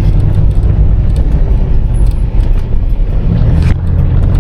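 Car driving slowly over a broken, washed-out road surface: a steady low rumble of engine and tyres, with a single knock about three and a half seconds in.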